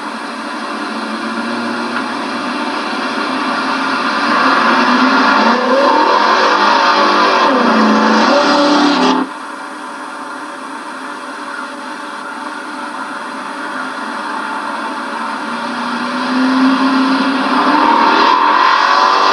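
Modified 1968 Mercury Cougar 302 V8 with a solid-lifter cam accelerating hard toward and past the microphone, getting louder as it comes, its engine note sweeping up and down at full throttle. The sound cuts off abruptly about nine seconds in, then the car is heard approaching again and growing loud near the end.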